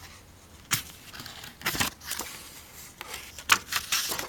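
Paper rustling as notebook pages are turned and handled, in several short bursts.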